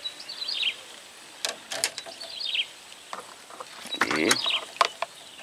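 A small bird chirping in three short runs of quick, falling notes, with a few scattered knocks between them.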